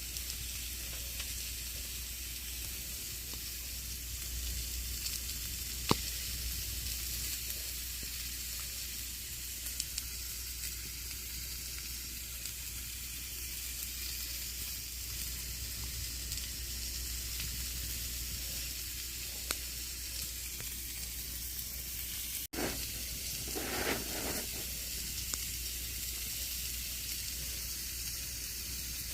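Campfire burning: a steady hiss with scattered sharp pops and crackles, and a brief louder hiss about three-quarters of the way through.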